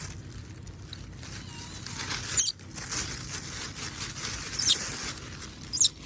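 Monkeys giving short, very high-pitched squeaks, three times over a soft rustling background.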